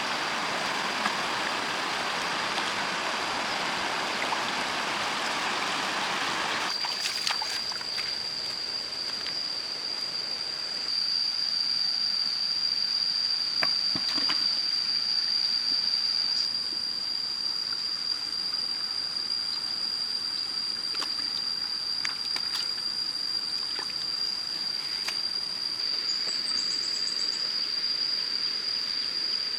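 Flowing stream water rushing for the first seven seconds or so, then stopping abruptly. After that, quieter water runs under a steady high-pitched whine, with a few light clicks.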